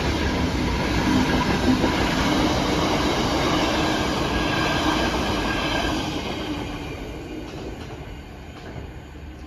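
Engineering freight train passing on the rails, its wheels and wagons making a steady noise that fades away from about six seconds in as the train recedes.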